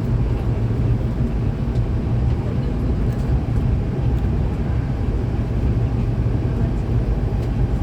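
Running noise inside a Hankyu electric commuter train cruising between stations: a steady low rumble of wheels on rail and car body.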